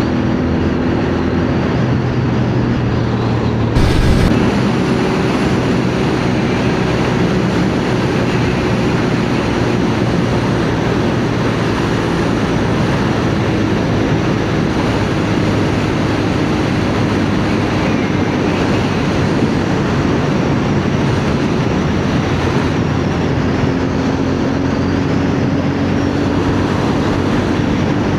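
CFMoto 450NK motorcycle cruising at steady speed: its engine runs steadily, with a few tones drifting slowly in pitch, under a steady rush of wind and road noise. There is a brief loud thump about four seconds in.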